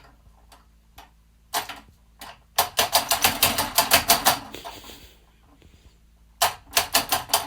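Rapid clicking in bursts, with a dense run of sharp clicks about three to four seconds in and another near the end.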